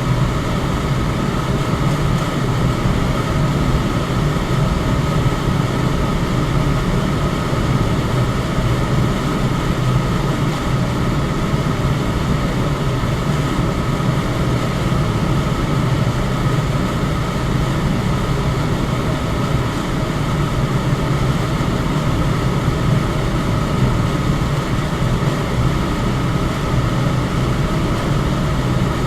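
Electric fan running steadily: an even rush of air with a low hum and a faint steady whine above it.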